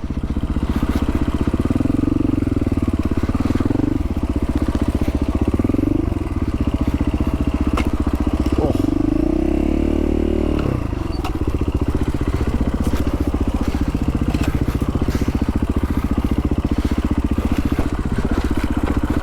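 Dual-sport motorcycle engine running steadily under way. About halfway through, its pitch dips and then climbs again as the throttle changes.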